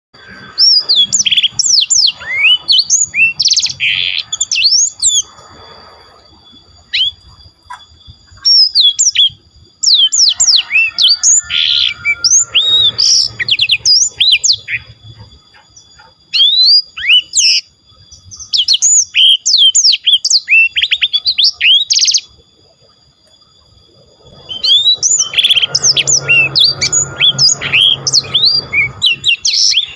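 A songbird singing a clean, sweet, flowing song: long phrases of quick whistled notes sliding up and down, with brief pauses between phrases.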